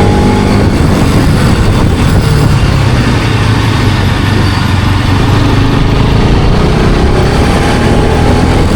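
Bajaj Pulsar RS200's single-cylinder engine running loudly through its exhaust, the note holding steady and then climbing a little in pitch in the second half.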